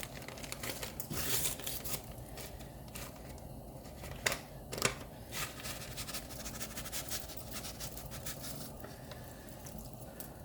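Kitchen handling sounds while something is added to a pot of pig feet: a run of light scrapes and small clicks, with two sharper clicks about four and a half seconds in.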